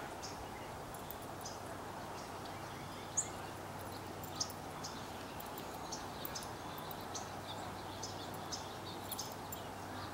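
Steady outdoor background noise with short, high bird chirps scattered through it; the loudest chirps come about three seconds and four and a half seconds in.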